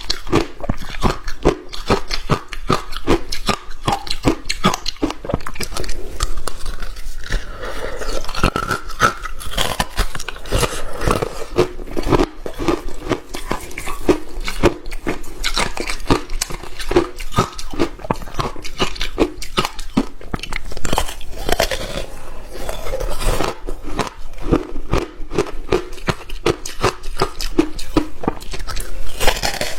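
A person biting and chewing hard ice: a dense, continuous run of sharp crunches and crackles.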